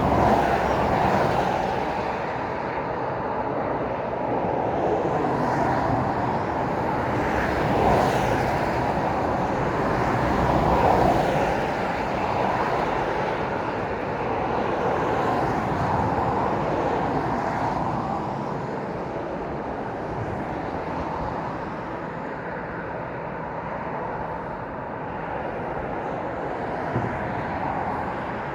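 Road traffic passing: a steady rush of tyre and engine noise that swells as vehicles go by, louder near the start and again about eight and eleven seconds in, then easing off.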